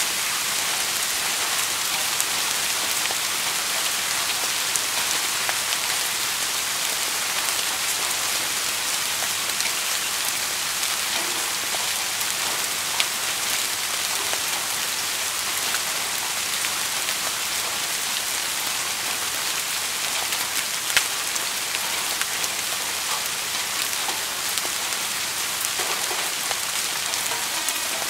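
Steady rain, a dense even hiss of falling drops with scattered individual drop ticks, two of them louder, about halfway through and again about three quarters of the way through.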